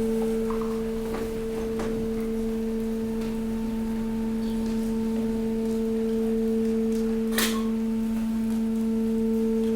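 Hydraulic waste compactor's pump running with a steady hum at one pitch while it presses mixed waste. A few short cracks from the waste give way under the press, the sharpest about seven seconds in.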